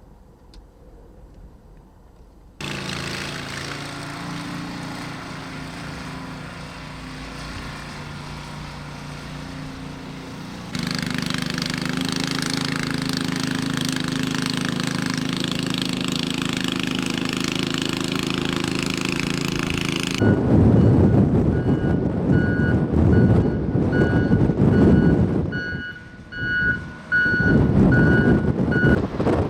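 Heavy vehicle engines running steadily across two cut shots. Then a vehicle backup alarm beeps repeatedly over strong wind buffeting the microphone.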